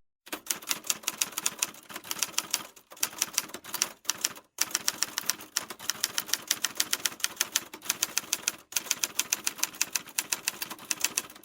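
Rapid typewriter key clicks in a steady stream, broken by brief silent gaps a few times.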